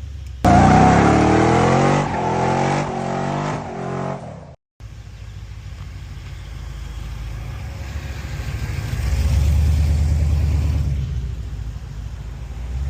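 Rebuilt LS V8 engine of a Monte Carlo SS revving loudly in several rising and falling pulls. After a sudden cut it runs lower and steadier, swelling once about two-thirds of the way in.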